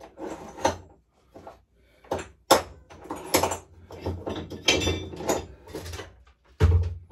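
Irregular clatter of tools and metal parts being handled, with several sharp knocks and a heavy thump near the end.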